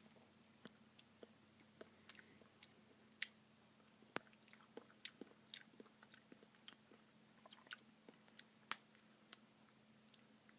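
Faint mouth sounds of someone chewing a spoonful of Snickers Brownie Blizzard ice cream: soft, irregular clicks and smacks, a few a second.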